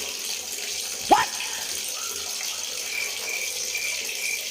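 Water running and splashing steadily from a small DIY water pump. About a second in comes a brief, sharp rising-and-falling squeak, the loudest sound. Later a quick run of faint high chirps follows at about three a second.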